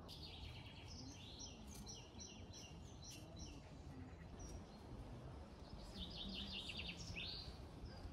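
Songbirds singing over faint steady outdoor background noise: several quick chirping phrases in the first few seconds, then a rapid trill of repeated notes about six seconds in.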